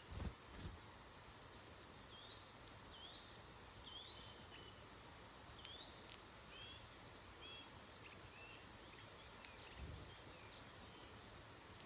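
Faint woodland ambience in which a small bird repeats short, high, rising chirps about twice a second, then gives scattered shorter notes. A couple of low thumps come near the start and again about ten seconds in.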